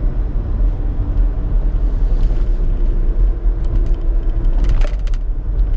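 Road noise inside a moving car: a steady low rumble of engine and tyres, with a faint hum through the middle and a few light clicks near the end.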